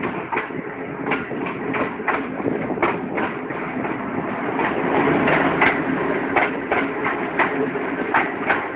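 Express passenger train running past: a steady rumble with quick, irregular clicking and clattering of wheels over the rail joints, growing a little louder midway.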